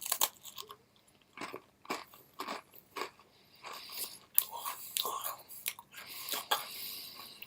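Someone biting into and chewing a crispy chicken biscuit: a string of irregular, crisp crunches close to the microphone.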